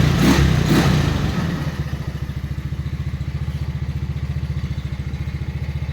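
Go-kart engine just after a cold start, running rough and uneven for about the first second and a half, then settling into a steady, evenly pulsing fast idle.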